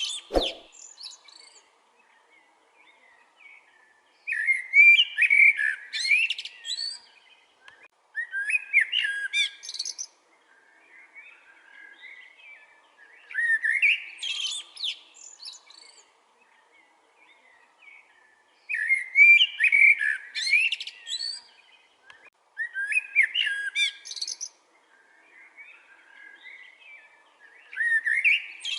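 Common blackbird singing: about six separate phrases of warbling a few seconds apart, each ending in a high, squeaky twitter, with short pauses between.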